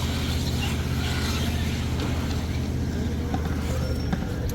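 An engine running steadily under load, with a few faint clicks and creaks from machinery.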